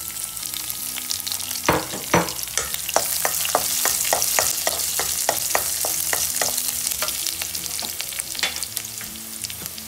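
Garlic cloves and cumin seeds sizzling in hot oil in a pan, with a spatula scraping and stirring them in quick strokes, about three a second through the middle.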